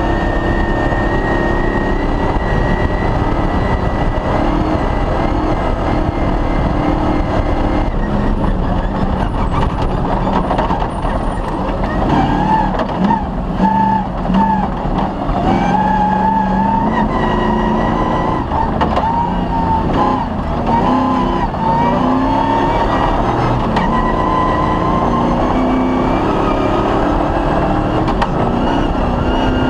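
Off-road rally car's engine running hard at stage pace, its pitch stepping up and dropping with gear changes and throttle lifts, most often in the middle stretch, over a constant low rumble.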